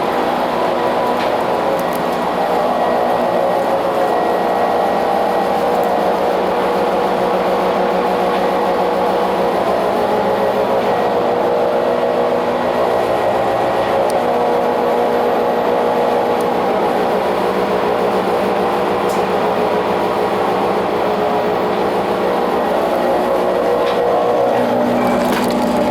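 Motor generator (MG) of a Tobu 8000 series electric railcar running with an abnormal noise: a steady, quite loud hum of several held tones that never lets up. A lower tone comes up stronger near the end.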